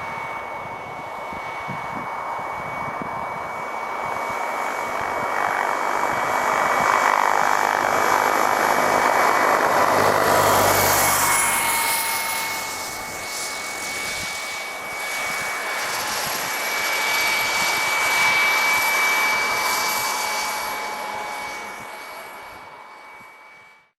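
Wren gas turbine of a quarter-scale Lama SA 315B model helicopter running, a steady high whine over the rush of rotor and exhaust. It grows louder to a peak about ten seconds in and again near nineteen seconds, then cuts off abruptly at the end.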